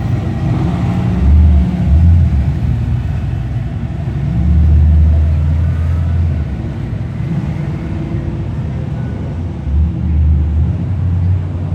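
Car engines running at idle, a steady low rumble that swells louder a few times.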